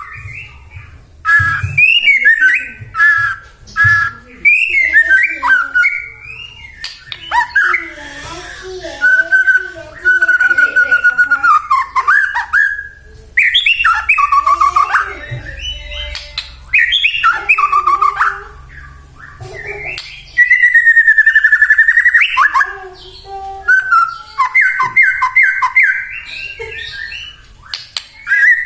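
White-rumped shama (murai batu) in full song: loud, varied phrases of clear whistles, slurred warbles and quick repeated notes, broken by short pauses. A long wavering whistle comes about two-thirds of the way through, and a run of rapid repeated notes comes near the end.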